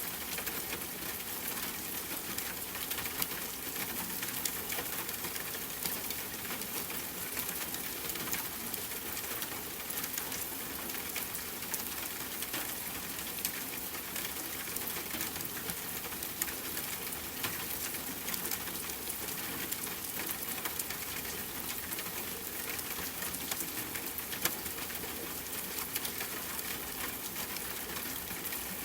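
Steady rain falling on a tent, mixed with a campfire crackling: an even hiss full of small sharp ticks and pops, with a slightly louder pop every second or two.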